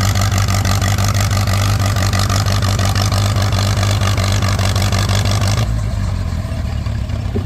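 Allis-Chalmers WC tractor's four-cylinder engine running hard under load, pulling a weight-transfer sled. About five and a half seconds in, the engine throttles back, as at the end of the pull.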